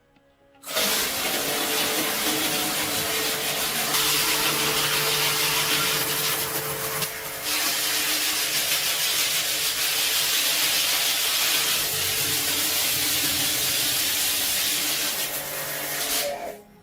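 A power tool running steadily, a loud hiss over a constant motor hum, starting about a second in and stopping shortly before the end.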